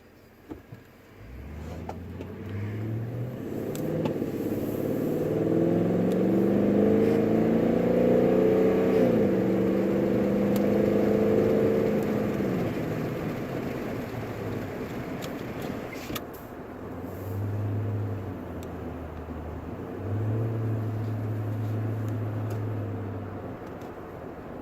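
A 2018 Toyota Tundra's V8, heard inside the cab through a Dirty Deeds stainless exhaust, pulling away from a stop, its note climbing in steps through the gears. It is loudest about eight to twelve seconds in, then eases back to a low exhaust drone that swells twice near the end.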